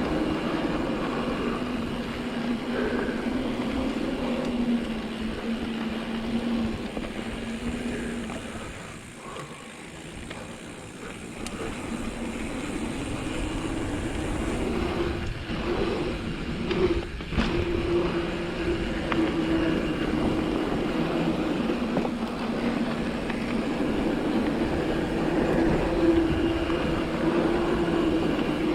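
A full-suspension mountain bike (2019 Vitus Sommet) riding down a dirt trail: continuous tyre and wind noise on the camera microphone, easing off briefly about a third of the way through. Sharp knocks and rattles come over bumps a little past the middle.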